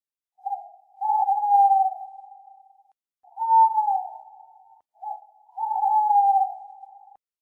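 An owl calling, three hooting calls in a row. Each has a short lead-in note and then a longer whistle-like note that falls slightly in pitch.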